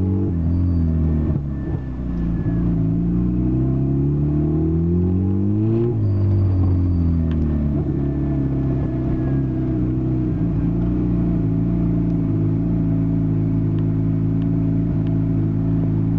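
Turbocharged Nissan SR20DE four-cylinder engine revved once, rising for about four seconds and then dropping back to a steady idle. As the revs fall there is a short high whistle from a recorder fitted to the blow-off valve.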